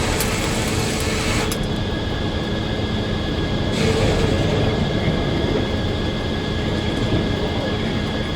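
Circular sawmill running: a steady, loud machine hum with several steady tones. A brighter hiss lies over it for the first second or so and again from about four seconds in.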